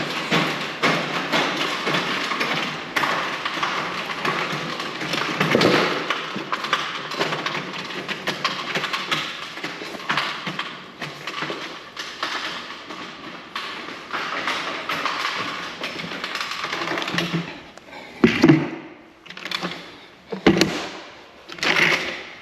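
Paint containers being unloaded and moved: a steady rattling clatter, then several separate heavy thumps near the end as loads are set down.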